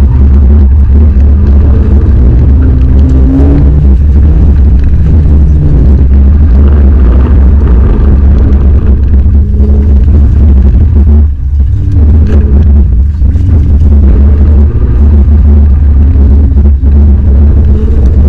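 Car engine running hard, its revs rising and falling over a heavy, steady low rumble, with a brief drop about eleven seconds in.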